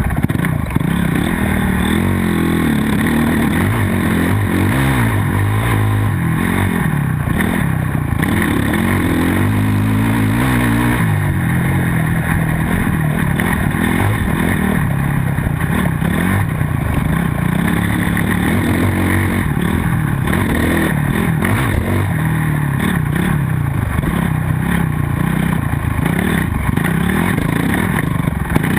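Motocross dirt bike engine running hard, its pitch rising and falling over and over as the throttle opens and closes.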